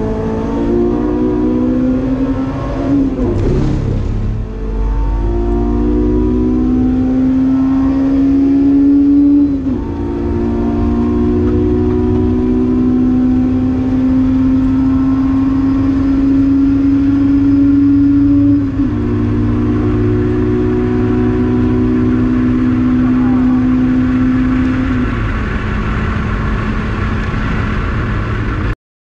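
Honda S2000's F20C 2.0-litre four-cylinder VTEC engine at full throttle, heard inside the cabin, rising in pitch through the gears. Three upshifts, about three and a half, ten and nineteen seconds in, each drop the pitch before it climbs again. The sound cuts off suddenly near the end.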